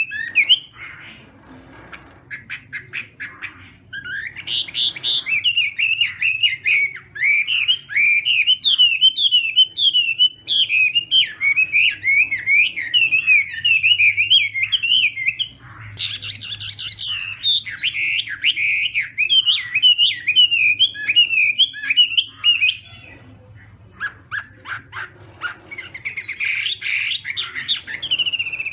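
Chinese hwamei (hoạ mi) singing long, rapid runs of quick repeated whistled notes, with short pauses about four seconds in and again about twenty-three seconds in.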